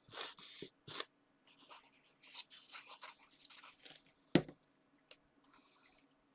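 Paper and cardstock rustling and crinkling as a card topper is handled, with a single sharp tap on the desk a little over four seconds in.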